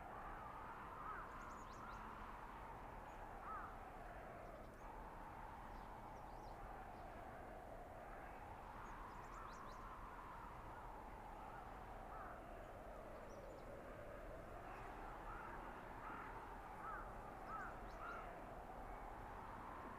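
Blizzard wind howling through a winter forest: a whistling tone that slowly rises and falls over a steady hiss. A few faint bird calls come through, more of them near the end.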